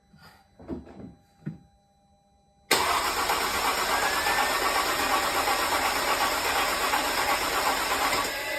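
Freshly rebuilt Mercedes-Benz M272 V6 engine starting at its first start: it catches abruptly, runs loud and steady for about five seconds, then is shut off and begins to wind down near the end. A few faint clicks come before it.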